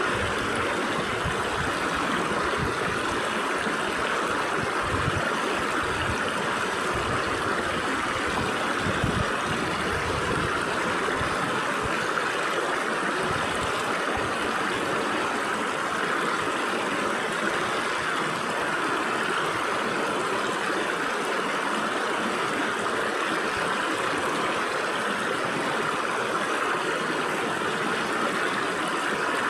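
Stream water rushing and splashing through gaps between rocks, a steady even rush.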